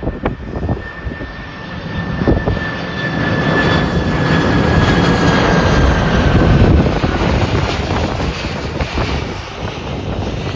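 Fixed-wing airplane passing by: engine noise that builds to a peak about six to seven seconds in and then fades, with a thin whine that slowly falls in pitch as it goes by. A few sharp clicks near the start.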